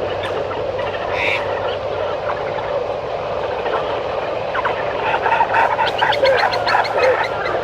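Rainforest chorus of animal calls, likely frogs among them: a steady hum with many quick, repeated chirps and clicks that grow denser in the second half.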